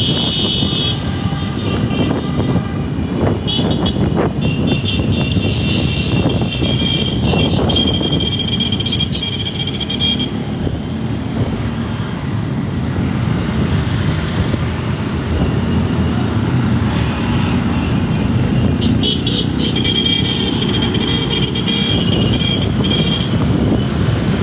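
Motor vehicles running on the road, heard from among traffic: a steady, dense engine and road rumble, with stretches of a high, steady tone near the start and again near the end.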